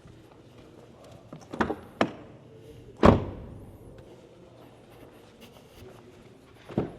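Volkswagen Golf car door being shut: sharp knocks about a second and a half and two seconds in, then a loud solid thunk about three seconds in, and another knock near the end.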